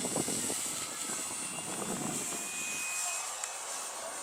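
Radio-controlled model airplane's motor running with a steady high-pitched whine.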